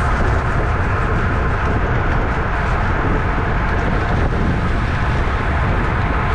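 Steady wind rush buffeting the microphone of a camera on a road bike ridden at race speed, a constant low rumble with a hiss above it.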